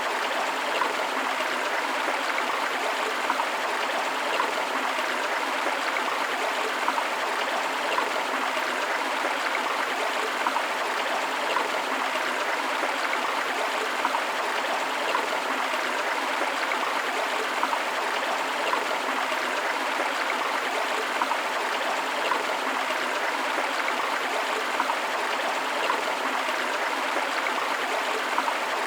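River water flowing and rushing over rocks, a steady even wash with small irregular splashes.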